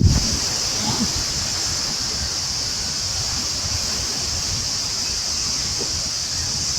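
Outdoor ambience: a steady high-pitched hiss, with wind buffeting the microphone at the very start.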